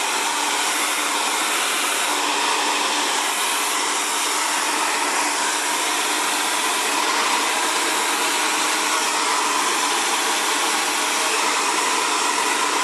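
Xtava Allure 2200-watt ionic ceramic hair dryer blowing steadily, an even whooshing rush of air with a faint motor hum, while drying curly hair.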